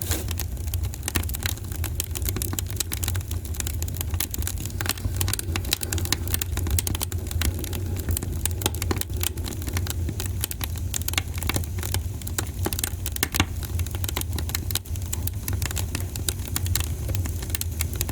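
Wood fire burning in a fireplace, crackling and popping with many irregular sharp snaps over a steady low rumble.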